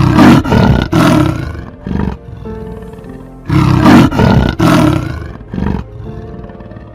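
A big cat roaring in two loud series of rough roars, one at the start and one about halfway through, with shorter roars between, over steady background music.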